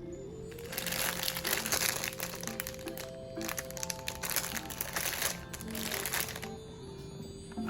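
Background music with two stretches of rustling from grocery packaging being handled: one from about a second in, another from about three and a half to six and a half seconds.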